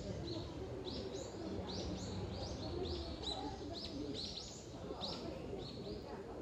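A small songbird chirping in a rapid series of short, high notes, about two or three a second, dying away near the end, over a steady low rumble.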